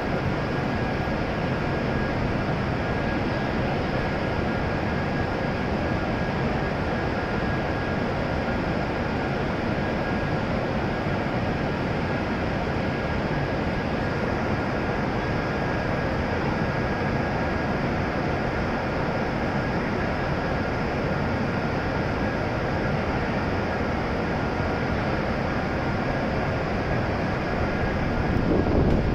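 Steady whir and hum of a W7 series shinkansen standing at the platform with its onboard equipment running, carrying a few faint steady tones. A louder low rumble swells near the end.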